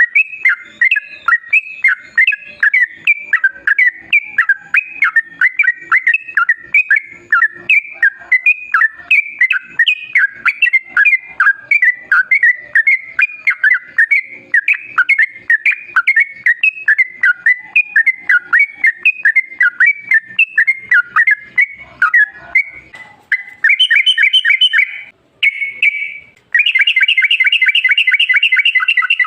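Yellow-vented bulbul (trucukan) singing a fast, continuous run of short chirping notes, several a second. Near the end it changes to a quicker, denser rattling trill that breaks off once and starts again.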